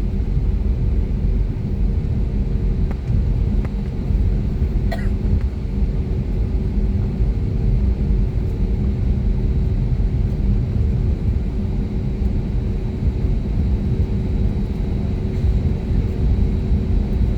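Steady low rumble with a constant hum, heard inside the cabin of an Airbus A320neo, from its CFM LEAP-1A engines at low thrust during taxi. The engine note stays level rather than building into a takeoff roar.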